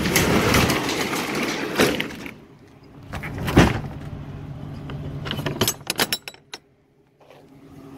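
A vehicle engine running steadily, with a loud knock about three and a half seconds in and a quick run of clicks and rattles a couple of seconds later, then a short break to silence.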